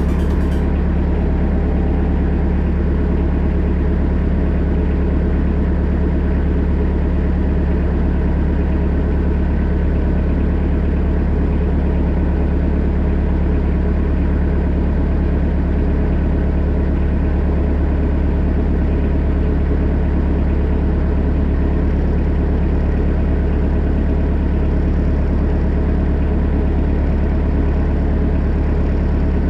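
Kubota B3000 compact tractor's diesel engine running at a steady speed, a constant low drone with no revving.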